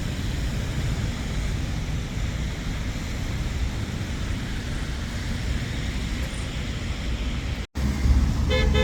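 Steady noise of road traffic. Near the end, a car horn sounds.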